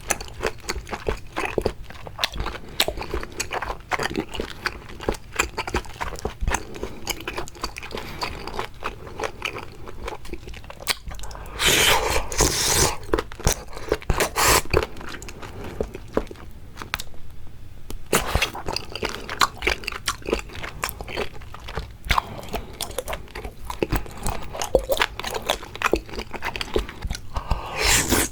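Close-miked eating sounds: seafood being bitten and chewed in a dense run of crunchy clicks. There is a louder stretch of bites about twelve seconds in and a brief lull a few seconds later.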